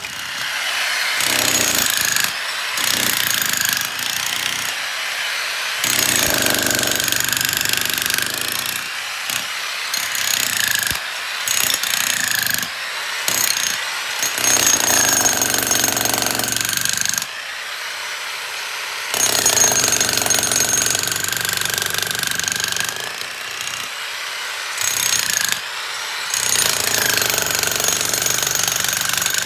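Jackhammer breaking up concrete, running in bursts of a few seconds with short pauses between.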